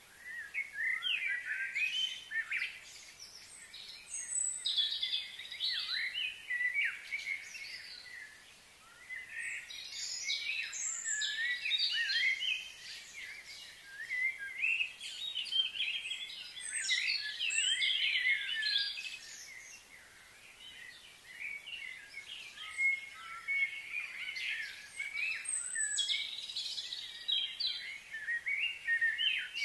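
Songbirds chirping and singing in quick, high-pitched phrases, coming in dense bursts with short lulls every several seconds.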